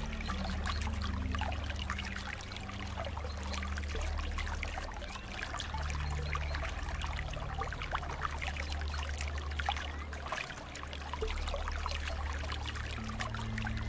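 Flowing water splashing and trickling steadily, with a low rumble underneath.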